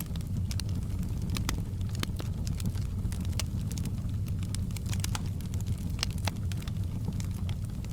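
Fireplace fire crackling, with irregular sharp pops and snaps over a steady low rumble of the burning flames.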